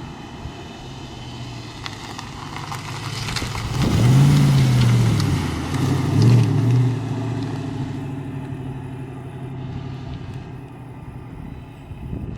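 1993 Ford Mustang SVT Cobra's 5.0-litre V8 driving past under light acceleration. The engine note swells to its loudest about four seconds in, rises and falls in pitch, surges again around six seconds, then fades as the car moves away.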